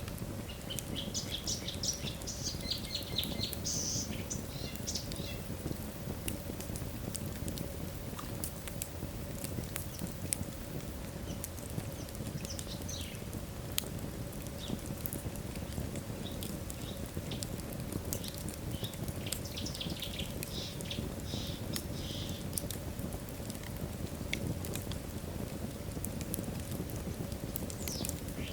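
Logs burning in a fireplace: a steady low rustle of flame with frequent sharp crackles and pops. Twice, near the start and about two-thirds of the way through, the logs give off a burst of high squeaky whistling.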